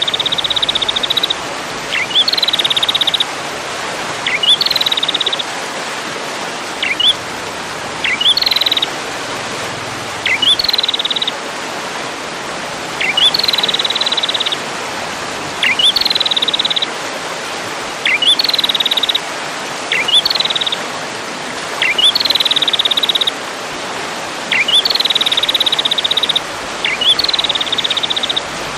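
Recorded songbird song used for masteran tutoring. It repeats one phrase about every two seconds: a quick rising note, then a rapid high buzzy trill lasting up to a second, over a steady hiss.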